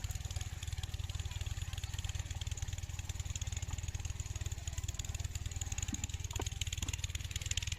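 8hp Kirloskar single-cylinder diesel pumpset engine running steadily with a rapid, even exhaust beat.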